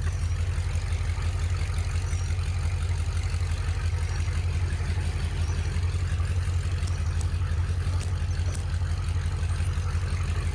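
1969 Chrysler Newport's 383 V8 idling steadily, a low, even pulsing.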